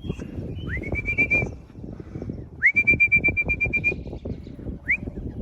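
Whistling to call racing pigeons down to the loft: two long whistles, each sliding up into a high, fluttering held note, then a short rising whistle near the end.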